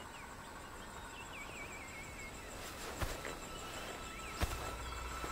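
Faint outdoor ambience with a small bird chirping and trilling, and two soft clicks about three and four and a half seconds in.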